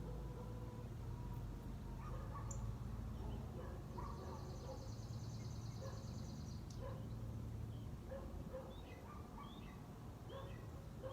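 Wild birds calling around a feeder: scattered short chirps, and about four seconds in a high buzzy trill lasting nearly three seconds, over a steady low outdoor rumble.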